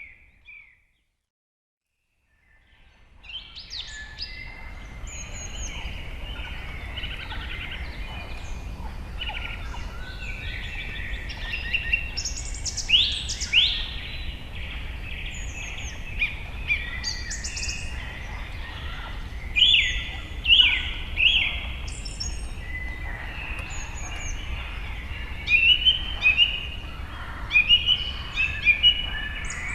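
Several birds chirping and singing over a steady low background rumble. The sound fades in after a second or two of silence near the start.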